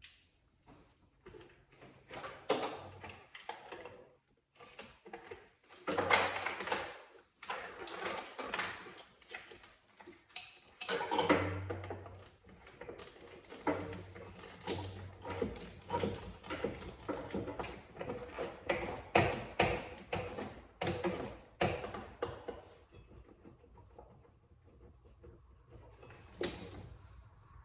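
Irregular clicks, knocks and rustling of hands working at old plastic wiring connectors on a car, with the activity thinning out near the end.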